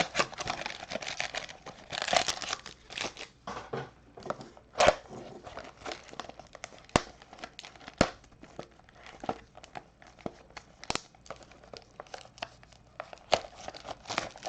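Packaging crinkling and tearing as sealed trading-card boxes and packs are opened by hand, with scattered crackles and a few sharp clicks.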